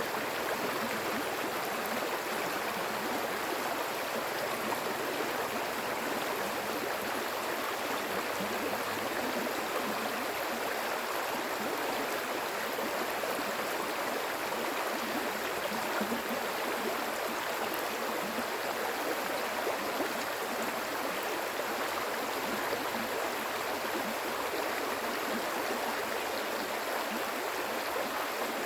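Flowing water running steadily, an even rush with no breaks or pauses.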